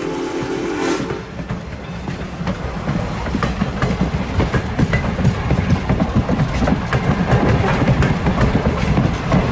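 A train's whistle sounds a chord and cuts off about a second in, then the train passes close by with a heavy rumble and rapid clickety-clack of wheels over the rail joints, growing louder.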